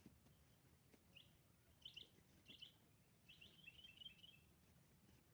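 Faint bird chirps: single short calls about a second in, at two and at two and a half seconds, then a quick run of chirps at three to four and a half seconds, over a low, steady outdoor hiss.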